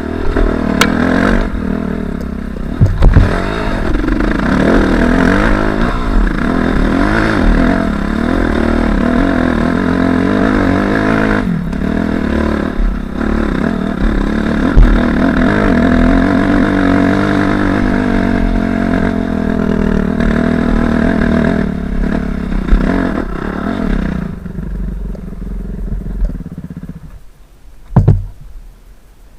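Suzuki RM-Z250's 250 cc four-stroke single-cylinder engine running under way, its revs rising and falling as it is ridden. The engine drops away about 24 seconds in, and a sharp knock comes near the end.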